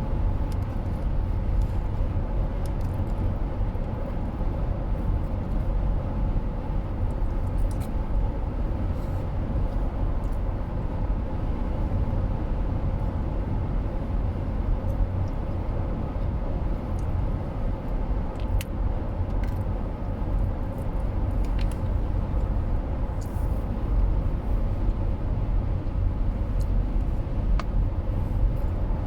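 Steady rumble of a car driving, the road and engine noise heard from inside the cabin.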